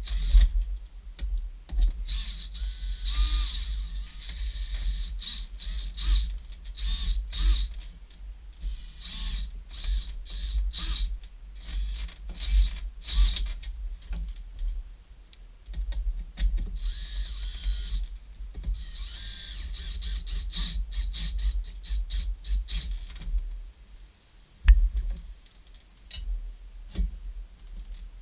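Clicks, knocks and handling noises of hand-tool work, with stretches of a steady high whirring or scraping sound in between, over a constant low rumble.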